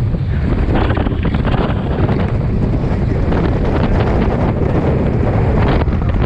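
Strong wind buffeting the microphone, over water rushing and splashing along the hulls of a Hobie 16 catamaran sailing fast, with frequent short splashes.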